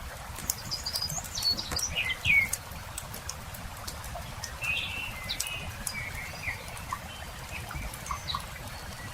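Campfire crackling with scattered sharp pops over a low steady rumble, while small songbirds chirp in short phrases, one cluster of calls in the first couple of seconds and another from about four and a half to seven seconds in.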